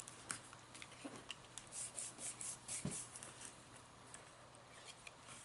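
Faint rustling and light ticks of paper and card being handled and folded down by hand, in short scattered strokes that cluster in the middle.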